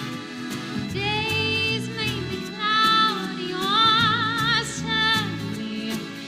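A woman singing long held notes with a wide vibrato over an instrumental accompaniment.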